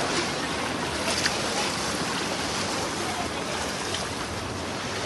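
Steady rushing noise of water from a heavy rainstorm and flooded street.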